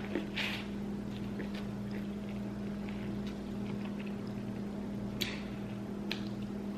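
Steady low hum with a few soft mouth noises of eating: short smacks about half a second in and again around five seconds in, plus small clicks.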